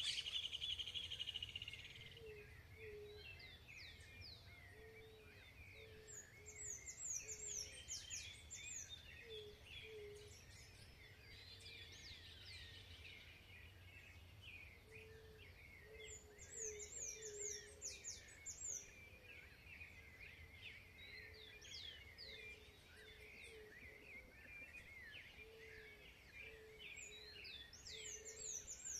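Faint chorus of several wild birds singing and calling over each other. A high phrase of quick falling notes recurs about every ten seconds, and a low note repeats steadily underneath.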